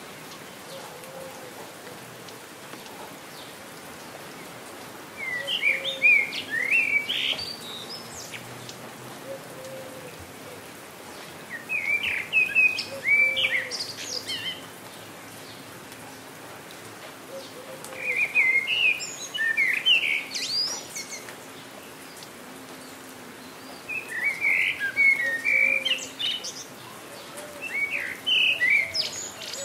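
A songbird singing short, rapid chirping phrases, five in all, about every six seconds, over the steady hiss of falling rain.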